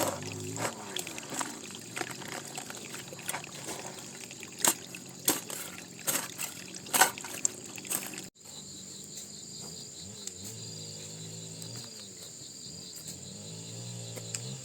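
Water trickling and pouring, with sharp splashes and knocks. After an abrupt cut about eight seconds in, crickets chirp steadily.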